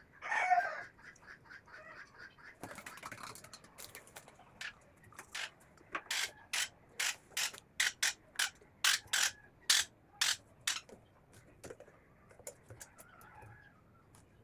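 Conure chicks begging while being hand-fed: a short squawk at the start, then a run of short raspy clicks, about two a second, loudest in the middle before they die away.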